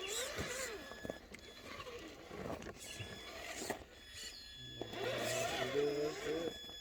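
Electric motor and geared drivetrain of an RC scale rock crawler whining as it climbs, the pitch rising and falling with the throttle, strongest near the start and again in the last couple of seconds.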